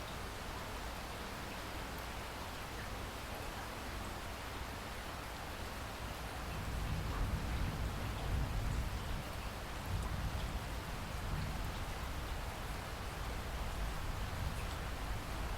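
Steady rain falling, an even hiss of drops, with a low rumble that swells about halfway through and carries on.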